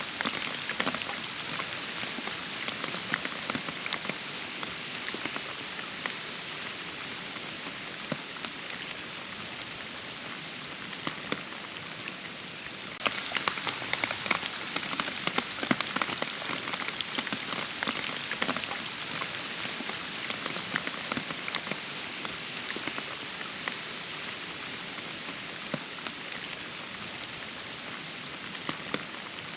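Steady rain, with many separate drops striking close by over the even hiss of the downpour. It turns suddenly louder about thirteen seconds in, then gradually eases back.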